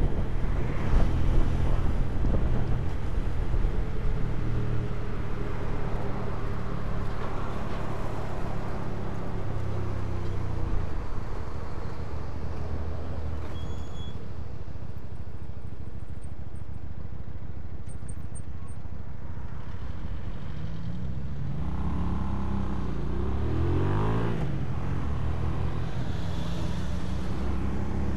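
Hyosung 250cc motorcycle engine running under way, with road and wind noise. Its revs drop about a third of the way in, then climb several times in quick succession a little after two-thirds in.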